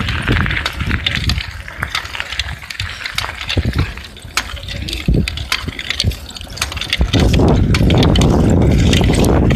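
Bicycle ride heard from the rider's handheld camera: scattered rattles and clicks from the moving bike, then about seven seconds in a sudden loud, steady rumble of wind and road noise on the microphone as the bike picks up speed.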